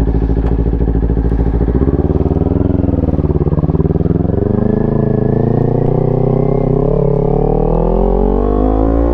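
Motorcycle engine running under way, close and loud: steady at first, its pitch dips and shifts a couple of seconds in, then it rises steadily through the last few seconds as the bike accelerates.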